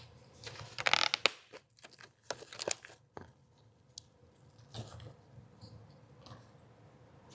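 Plastic packaging crinkling and tearing as a pack of ground chicken is opened and the meat handled into a mixing bowl. There is a dense cluster of crackles about a second in, then scattered short rustles and soft taps.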